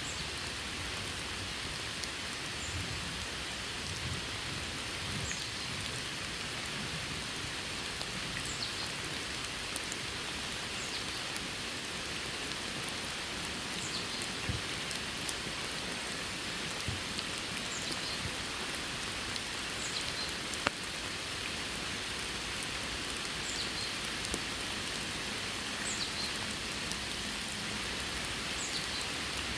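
Steady rain falling, with a few louder single drops tapping now and then.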